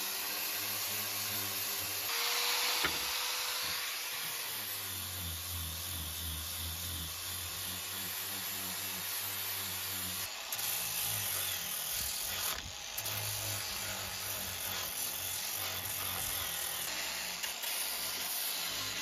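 Wood being sanded with coarse 60-grit abrasive: a steady rasping hiss as the plane-wood pizza peel is shaped, swelling louder about two seconds in.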